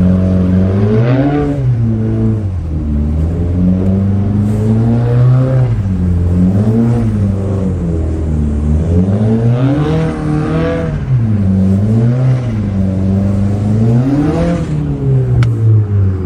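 Car engine revving up and down over and over, a rise and fall about every second or two, as the car is drifted. A single sharp click sounds near the end.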